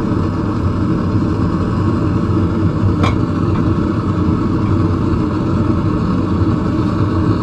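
Forge running steadily while the tong metal is reheated for another heat, with one short sharp click about three seconds in.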